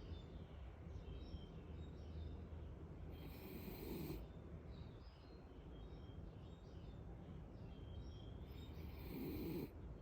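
A pet snoring through its nose: two long, noisy breaths about five seconds apart. Faint bird chirps in the background.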